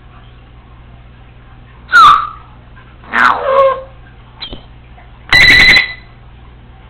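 Congo African grey parrot calling: a short loud call sliding down in pitch about two seconds in, a two-part call a second later, a faint click, then near the end a loud steady-pitched call lasting under a second.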